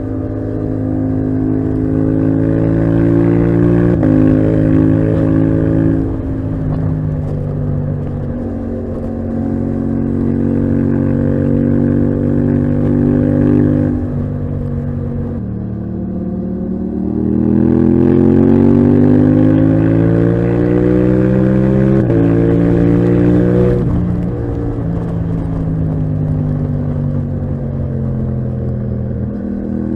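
Yamaha MT-07 parallel-twin engine through a titanium Akrapovic exhaust, pulling hard under throttle. Its pitch climbs and then drops sharply several times as it changes up through the gears, with one long rising pull past the middle before easing off near the end.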